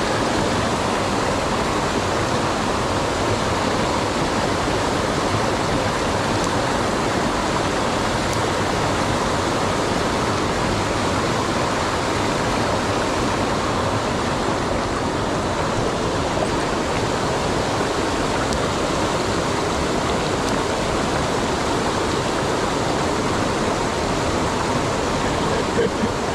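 Fast-flowing mountain stream rushing over rocks: a steady, even water noise that doesn't change.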